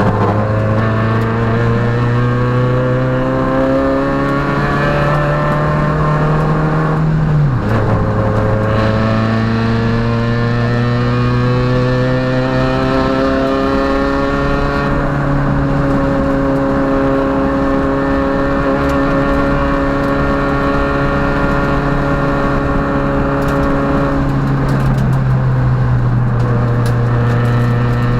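Peugeot rally car's engine heard from inside the cabin, pulling hard with the revs climbing slowly, a quick drop in revs from a gear change about 7 seconds in, then climbing again and holding nearly steady before the revs fall once more near the end.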